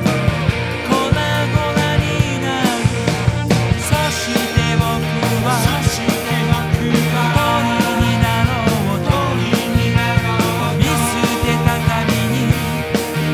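Rock band music: electric guitars and bass over a drum kit keeping a steady beat, with some bending lead notes.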